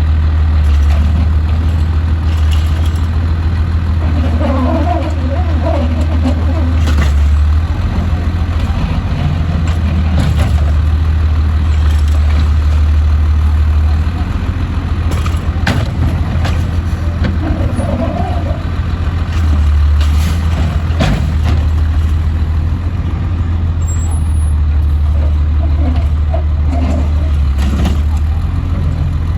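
Autocar side-load garbage truck running steadily, with several sharp knocks and clanks from the truck at work.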